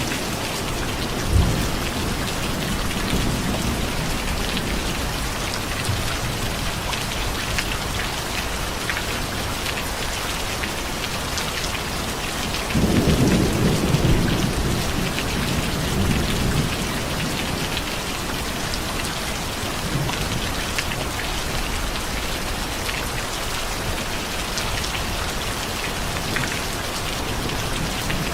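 Steady heavy rain pouring down, with a low roll of thunder swelling about halfway through and fading over a couple of seconds, and a brief sharp knock about a second and a half in.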